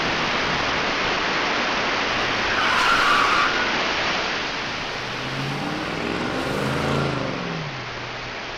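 Steady rain-like hiss of a car driving past on a wet road. The tyre hiss swells about three seconds in, then an engine hum rises and falls in pitch as the car goes by, fading toward the end.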